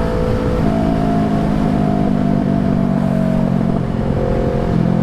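Motorcycle engine running under way, with wind and road noise. Its pitch settles about half a second in, then dips briefly and picks up again near the end.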